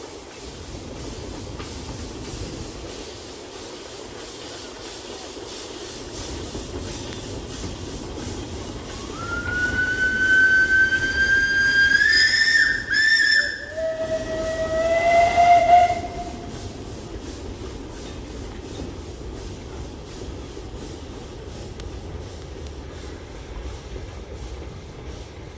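Narrow-gauge steam locomotive running with a steady, even beat. About a third of the way in it sounds a long, loud whistle that slides up in pitch and holds, then breaks into a shorter, lower whistle note that stops about two-thirds of the way through.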